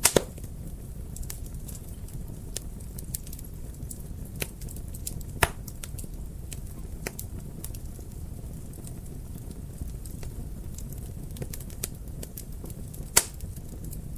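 Wood fire crackling in a fireplace: a steady low rumble of burning with many small, irregular crackles. Three louder pops stand out, one right at the start, one about five seconds in and one near the end.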